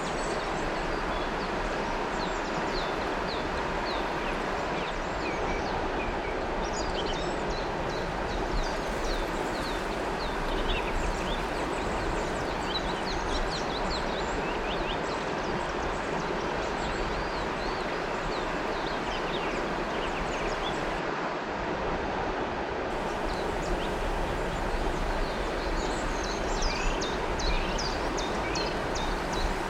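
River water flowing with a steady rush, and many birds chirping and twittering above it in quick short notes, busiest toward the end.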